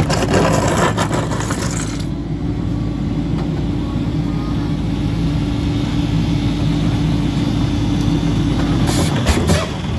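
Ex-DSNY Mack LE garbage truck with a Heil packer body running steadily under load while the hydraulic packer compacts trash. Crunching and crackling of trash being crushed comes through for the first couple of seconds over the engine's steady hum, and a few sharp knocks follow near the end.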